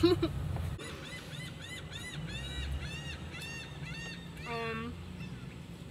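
A bird calling: a quick run of short, repeated calls that rise and fall in pitch, about three a second for some three seconds, over a low steady hum.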